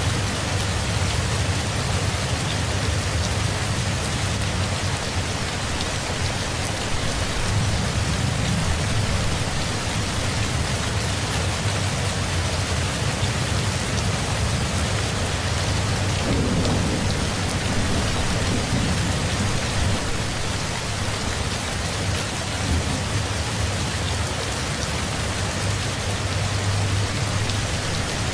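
Steady, even rain falling on surfaces. About two-thirds of the way through, a low rumble of distant thunder swells briefly.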